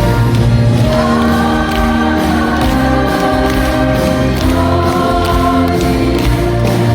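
Live performance of a slow Korean folk song: many voices singing together in long held notes over instrumental accompaniment.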